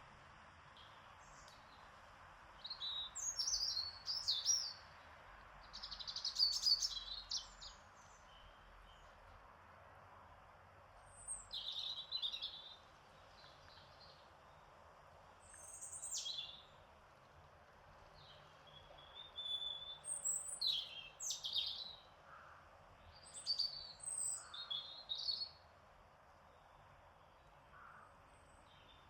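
Birdsong: short, high phrases of chirps and trills about every few seconds, some with pauses of several seconds between them, over a faint steady background hiss.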